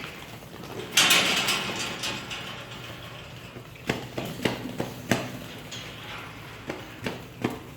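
Pigs in a farm pen: a loud, harsh cry about a second in, lasting a second or so, then scattered short knocks and clatters.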